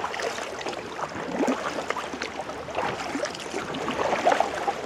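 Water splashing and gurgling around a kayak as the paddle dips in and the hull moves through slightly rough water. It swells about every second and a half.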